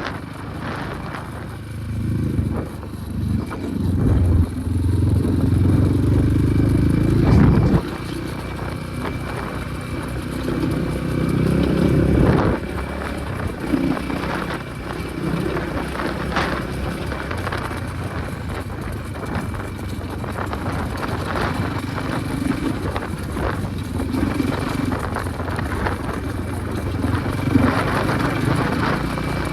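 Enduro motorcycle engine running and revving, loudest in surges from a couple of seconds in to about eight seconds and again near twelve seconds, then running more evenly.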